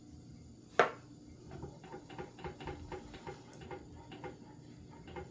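Kitchen utensil sounds while a spice is being measured into a saucepan: one sharp click a little under a second in, then a run of faint light taps, about three a second.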